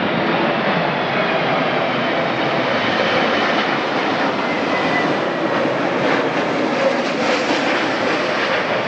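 Airliner landing: a steady, loud engine rush with a faint whine.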